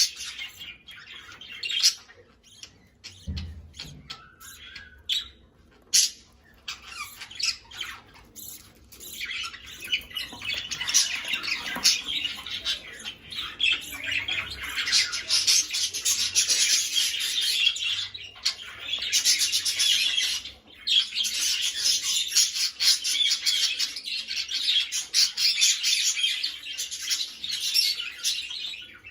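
Budgerigars calling: a few sharp, scattered squawks at first, then steady, busy warbling chatter from about ten seconds in.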